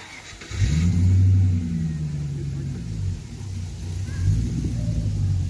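A car engine fires up about half a second in, revs briefly, then runs on steadily with a low, even note and a second rise in revs near the end.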